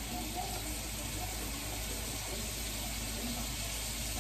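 Lamb chops sizzling steadily in a pan.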